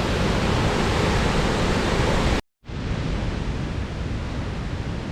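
Steady rushing roar of a waterfall, the Lower Falls on Gold Creek. About halfway through it cuts out completely for a split second, then carries on slightly quieter.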